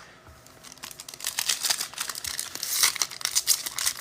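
Foil wrapper of an NFL trading-card pack being torn open and crinkled, a dense crackling and rustling that starts about a second in.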